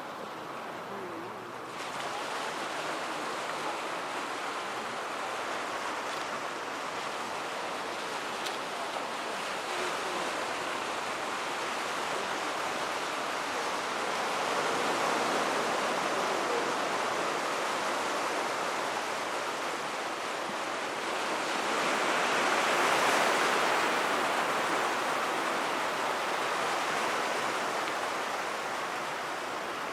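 Surf on the beach: an even rushing wash of breaking waves that swells louder and fades back twice, with no firework bursts heard.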